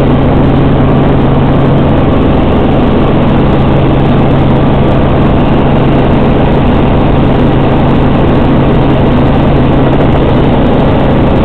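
Robinson R44 Raven I helicopter's engine and rotors running steadily, a loud unbroken drone with a constant low hum beneath it.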